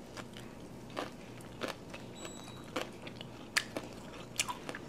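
A person chewing a mouthful of Vietnamese spring roll with crunchy fried tilapia, giving a short, crisp crunch about once a second.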